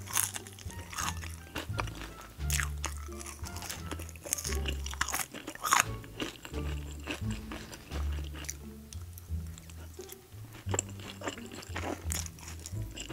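Close-miked chewing and biting of sauce-covered French fries with melted cheese and caramelized onions, with irregular crunches and wet mouth sounds. Background music with a steady bass line runs underneath.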